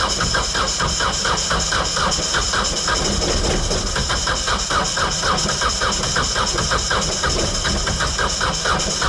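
Electric starter cranking a Kubota B compact tractor's diesel engine in hard frost, turning it over in an even pulsing of about five beats a second without it catching. The owner blames summer diesel in the tank, which the cold has thickened.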